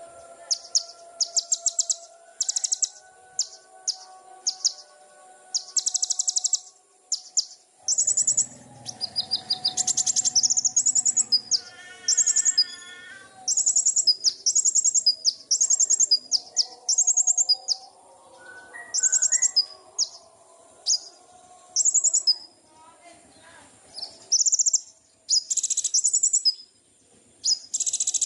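Songbird singing: many short, very high-pitched chirping phrases in quick succession, with fainter lower calls behind and a brief run of lower whistled notes about twelve seconds in.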